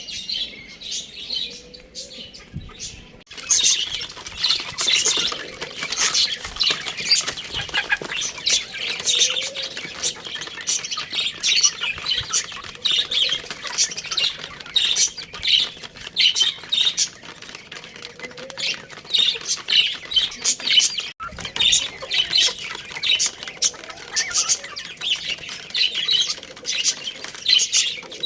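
Many small birds chirping and squawking over one another in a dense, continuous chatter of short high calls, quiet at first and much louder from about three seconds in, with a brief break about 21 seconds in.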